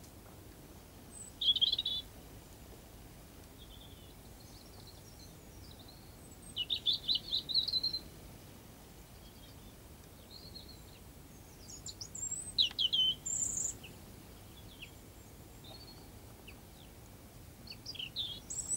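Small songbirds chirping and singing in short high phrases, four bursts a few seconds apart, over faint steady background noise.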